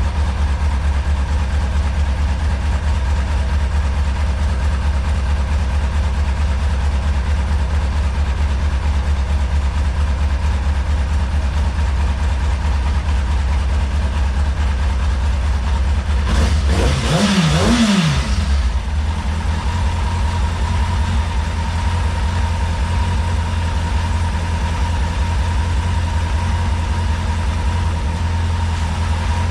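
2003 Kawasaki Ninja ZX-6RR inline-four engine idling steadily after its fuel pump was replaced, with a brief throttle blip rising and falling in pitch a little past halfway through.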